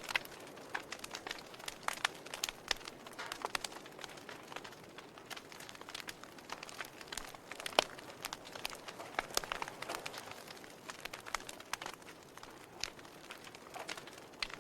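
Wood fire crackling in a fireplace: irregular sharp pops and snaps over a steady soft hiss, with one louder pop about halfway through.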